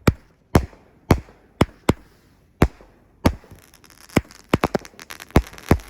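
Two Sunwing T.N.T.B.A.M. 200-gram consumer firework cakes firing together: sharp shot reports about every half second, then from about three seconds in a faster run of bangs with crackling between them.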